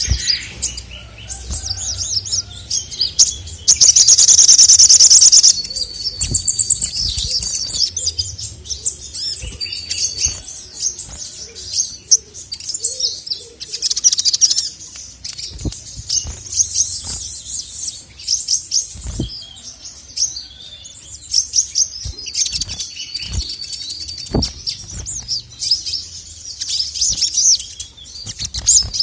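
Male sogon (sogok ontong) sunbird singing continuously in high, rapid chirps and trills, with a loud, dense burst of trilling about four seconds in. Scattered soft thumps are heard.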